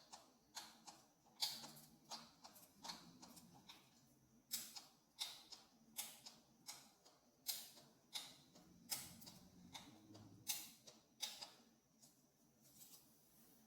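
Faint, irregular clicks over near silence, about one or two a second.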